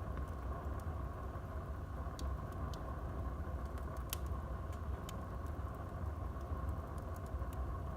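Wood fire burning in a fireplace: a steady low rush of flames with scattered crackles and pops, the sharpest about four seconds in.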